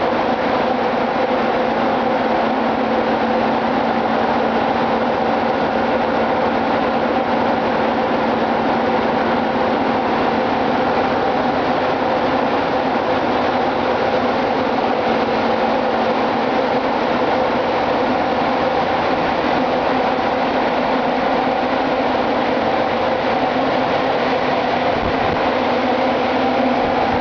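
Ship's engine room machinery running: a loud, steady drone with a constant hum, unchanging throughout.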